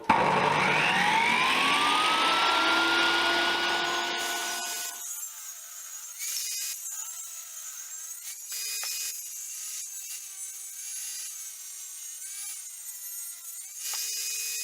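Electric power tool working wood: the motor starts with a rising whine and cuts loudly for about five seconds, then runs with a quieter high whine that stops and starts briefly several times.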